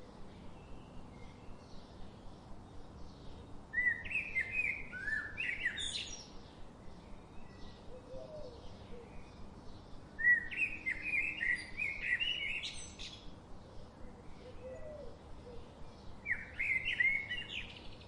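A songbird singing three phrases of quick warbled notes, about six seconds apart, with fainter chirps from other birds in between.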